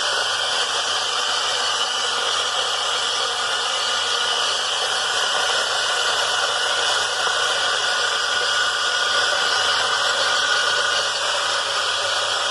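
Espresso coffee grinder's electric motor running steadily: a continuous whir with a low hum underneath.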